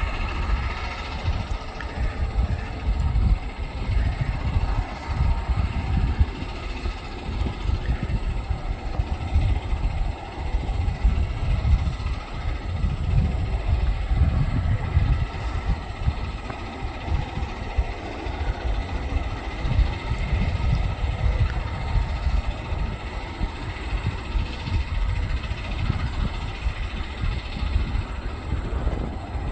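Diesel engines of a Loram SBC-20 rail ballast-cleaning machine running steadily, with a heavy low rumble that swells and fades.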